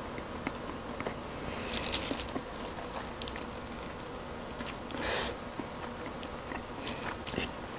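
Close-miked chewing of crispy fried chicken: scattered wet mouth clicks and crackly crunches, with a louder burst about five seconds in.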